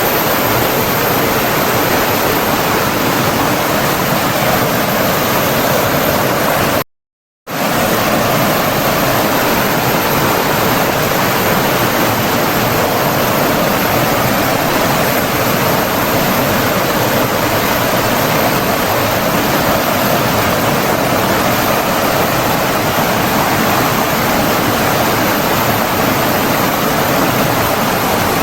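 Steady rushing of flowing water from a stream or waterfall, a dense even wash of sound. It cuts out completely for about half a second about seven seconds in, then resumes unchanged.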